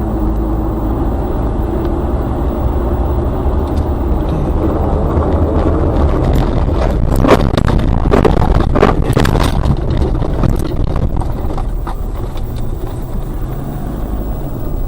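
Car driving, with a steady engine and road rumble. A cluster of sharp knocks and bangs comes about six to ten seconds in, the loudest about seven seconds in.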